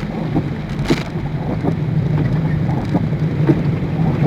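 Heavy rain hitting a car's roof and windshield as it drives, heard inside the cabin: irregular sharp taps of drops, one louder about a second in, over a steady low drone from the car and road.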